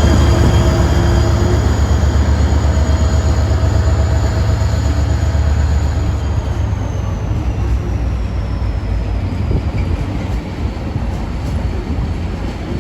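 Locomotive-hauled train departing, its locomotive's heavy low rumble slowly fading as it pulls away.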